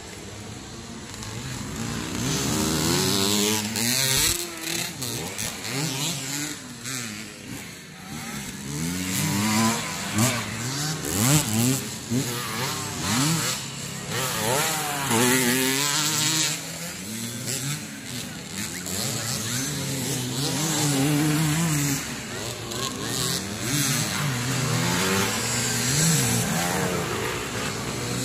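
Motocross bikes racing, their engines revving up and down over and over as they accelerate and shift. Several engines overlap, so the sound swells and fades as the bikes pass.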